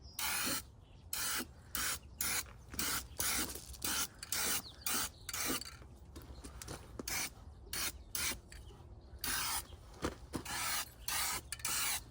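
Aerosol spray-paint can with a wide flared fan tip hissing in many short bursts, about one or two a second, with brief pauses between passes.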